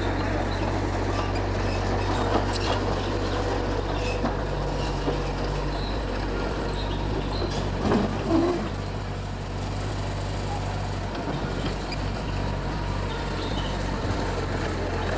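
Mitsubishi G2 bulldozer's diesel engine running steadily, with a few short knocks, the loudest about halfway through.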